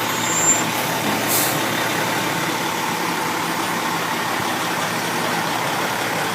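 Fire truck engine running steadily, with a short hiss of air about a second and a half in.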